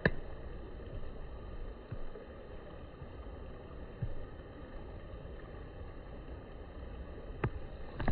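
Steady low outdoor background noise with a sharp click at the start and a few faint clicks later.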